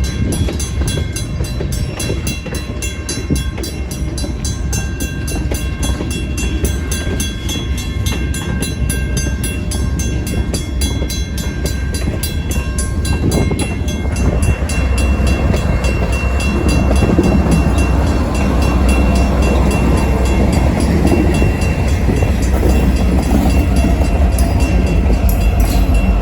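Freight train rail cars rolling through a grade crossing in reverse, a low rumble and clatter that grows louder about halfway through. Over it, the crossing's WCH mechanical bell rings steadily with rapid, evenly spaced strikes.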